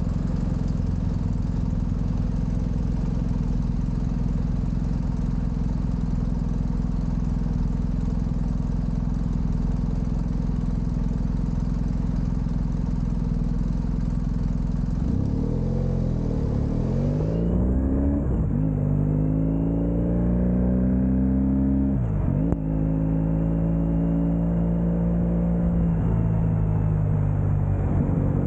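Motorcycle engine running at a steady speed with wind rush for about fifteen seconds, then its pitch rises and falls as the bike changes speed, with two brief sharp dips in the engine note like gear changes; the wind rush fades about halfway through.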